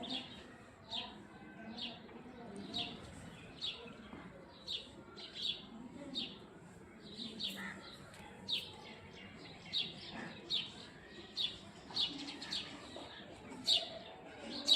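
Small birds chirping: short, high, downward-sliding chirps repeating about once a second, over a faint low murmur.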